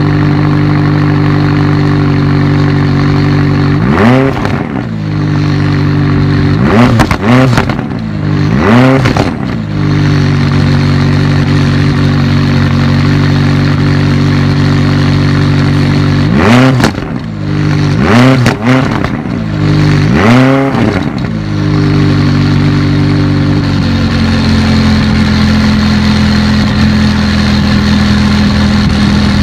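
McLaren 570S's 3.8-litre twin-turbocharged V8, heard at the exhaust from behind the car, idling steadily. It is revved in about seven quick throttle blips, each rising and falling straight back to idle. The idle note changes near the end.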